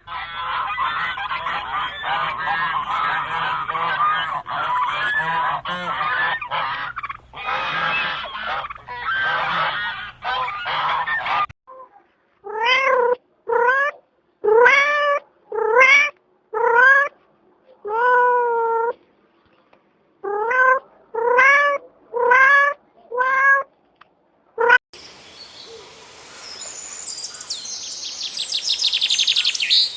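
Animal calls in three parts: a dense chorus of many overlapping calls, then about a dozen single pitched calls, each rising then holding, roughly one a second, then a noisier stretch with quick high chirps near the end.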